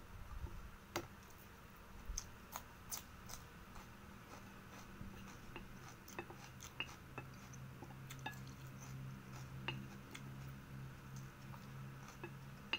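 Close-up chewing of fried rice, with sharp clicks and scrapes as a plastic spoon scoops from a plate. A low steady hum runs through the second half.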